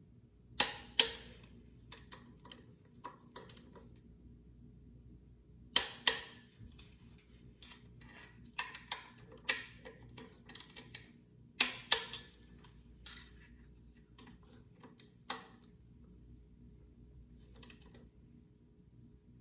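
Click-type torque wrench tightening bolts to torque, with a sharp metallic click or a quick pair of clicks every few seconds as it reaches its setting, and lighter ticks and taps in between.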